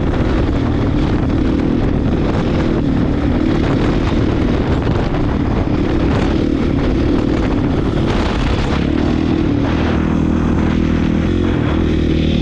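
Honda CRF450 dirt bike's single-cylinder four-stroke engine running hard under riding load through a very loud aftermarket HGS exhaust, the note varying with the throttle and then holding steadier near the end.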